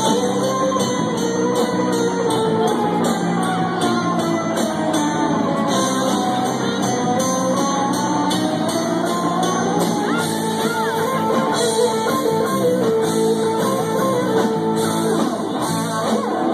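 Live rock band playing with electric guitar and drums, no lyrics sung here; a lead line of long, bending, gliding notes runs over the top.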